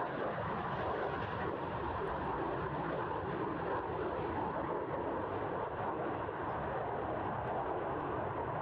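Jet noise from the Greek F-4 Phantom II's twin General Electric J79 turbojets: a steady, even noise with no clear pitch and no change in level.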